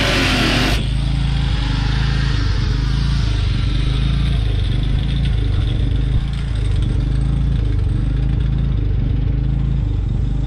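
Heavy rock music cuts off just under a second in, leaving a vehicle engine running steadily with a low rumble.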